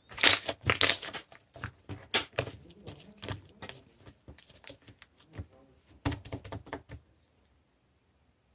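Black slime being squished and pressed by hand, giving a rapid uneven run of sharp clicks and pops that stops abruptly about seven seconds in.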